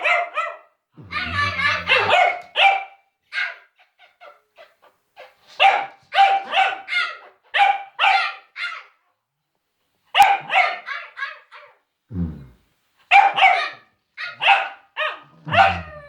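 Cavalier King Charles spaniel barking repeatedly in short bouts, with pauses of about a second between runs, as a nervous alarm bark.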